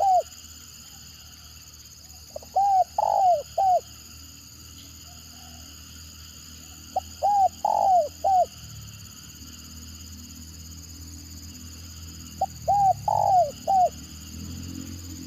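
Spotted dove cooing: three phrases about five seconds apart, each a quick clipped note followed by a few longer arched coos, the broken 'stuttering' (gagap) call.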